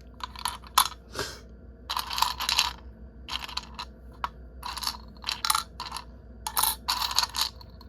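Small craft embellishments (resin and metal charms and bows) being handled and shuffled on a tray: an irregular run of light clicks and clinks mixed with short rustles.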